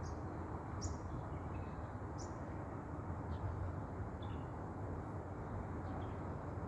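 Small birds giving short, high chirps every second or so, over a steady low background noise.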